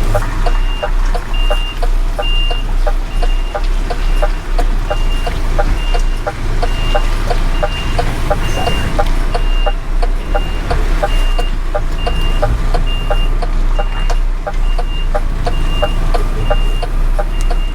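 Car transporter truck reversing: its reversing alarm beeps about once a second over the steady running of the diesel engine, with the hazard-light relay ticking quickly and evenly in the cab.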